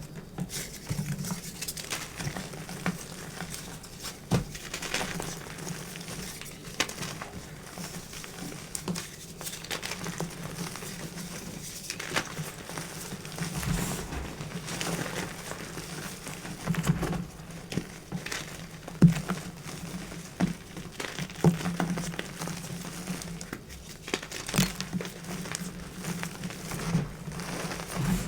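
Close-miked chalk crunching in irregular crisp crackles, some louder than others.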